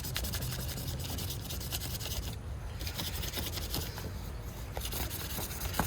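Steady, fine rubbing and scratching of hands working over a small pocketknife, with a faint low hum underneath.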